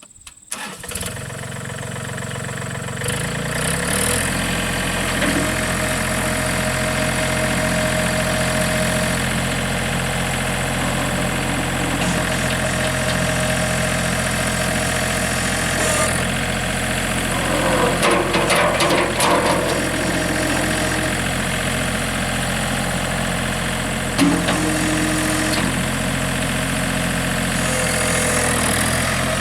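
John Deere 3320 compact tractor's three-cylinder diesel engine cranked and started, catching about three to four seconds in, then idling steadily. A brief clattering rattle over the idle later on.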